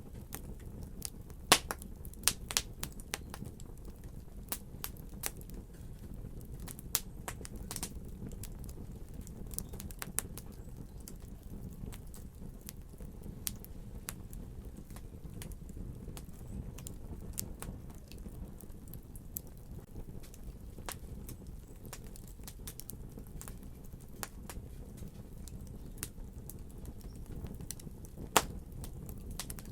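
Wood fire crackling, with irregular sharp pops and snaps over a low steady rumble of flame. A few louder pops stand out near the start and near the end.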